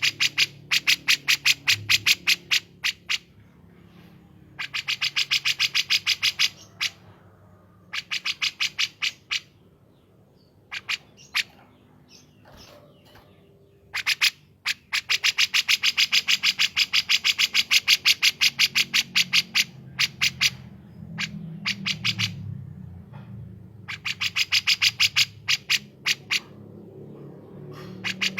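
Bulbul song: rapid, machine-gun-like trains of sharp, evenly spaced notes, about eight to ten a second. They come in bursts of one to six seconds, with pauses and a few single notes between.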